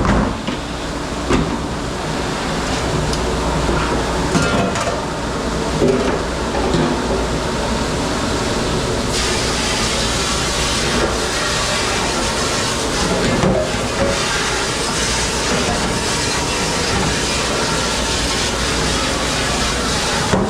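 Steady rush of a commercial dish machine and spraying water in a kitchen dish room, with a few short clatters of dishes. The high hiss gets louder about nine seconds in.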